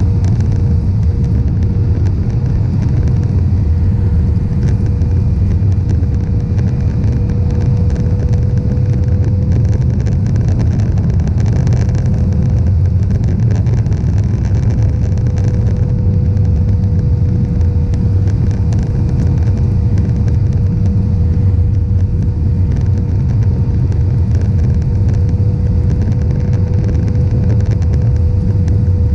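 Airbus A320-200 in flight: a steady, loud, deep rumble of jet engines and airflow, with one steady hum tone running through it.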